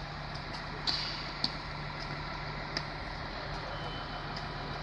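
Koleje Dolnośląskie regional train at the platform, a steady hum and hiss under the station roof, with a few short sharp clicks.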